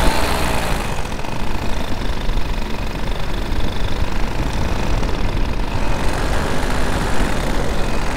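Minari F1 paramotor engine running steadily behind the pilot in flight, with a dense low rumble of rushing air; the high hiss thins about a second in.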